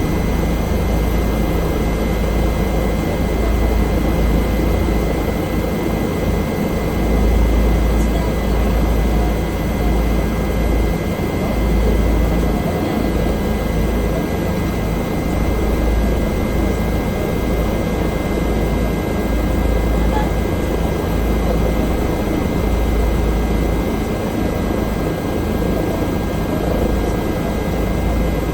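Bell helicopter running, a steady, loud, deep rotor and engine rumble with a constant high whine over it, unchanging throughout.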